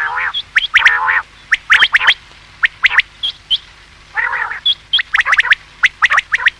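Common quail calling: quick, sharp, high notes in clusters, with a lower, harsher call at the start and again about four seconds in.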